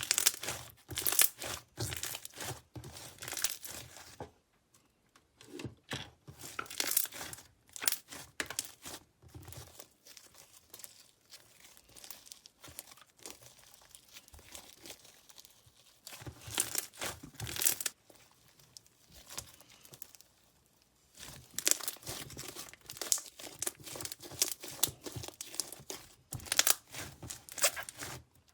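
Bead-filled slime being squished and stretched by hand, giving off dense crackling and popping in bursts, with quieter spells between the bursts.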